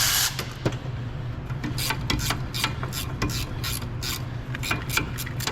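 Hand tools working on metal brake parts: irregular short clicks and scrapes, a few a second, over a steady low hum.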